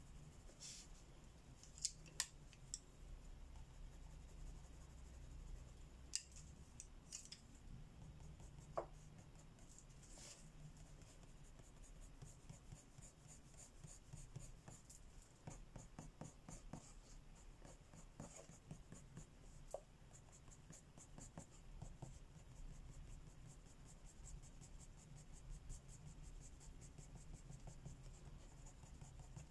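Faint scratching of pencil strokes on paper as a page is colored, coming in quick runs of strokes, with a few light clicks in the first ten seconds.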